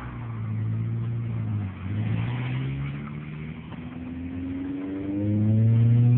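Honda Prelude's DOHC four-cylinder engine being revved, its pitch dipping and rising, then climbing to the loudest point near the end, with a hiss over it. The engine lacks power and struggles to rev; the owner suspects a vacuum leak or a clogged catalytic converter.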